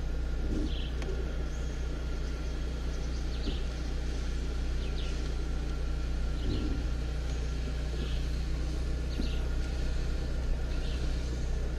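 Car engine idling, a steady low hum heard from inside the cabin. Over it come short high chirps every second or so, from a bird calling outside.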